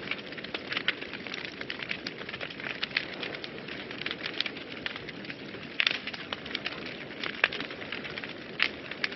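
Wood fire burning in a fireplace: a steady low rush of flames with irregular crackles and pops, a few sharper pops in the second half.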